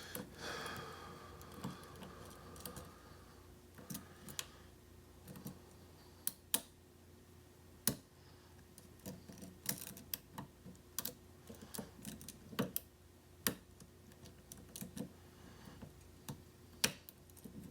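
Lock pick working the pins of a pin-tumbler challenge lock under tension: scraping in the first few seconds, then irregular sharp clicks as pins are lifted and set.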